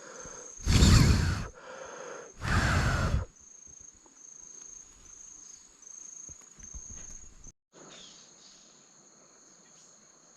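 Insects chirping in a steady, high, pulsing rhythm. Two loud bursts of noise, each under a second long, come in the first few seconds.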